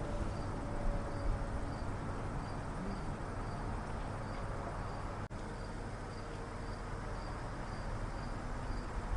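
Cricket-like insect chirping, a faint high pulse repeating about two and a half times a second, over a steady low outdoor rumble.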